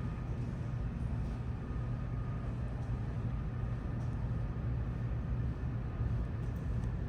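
Steady low rumble from an R160 subway train in the station, with a faint thin high tone coming and going.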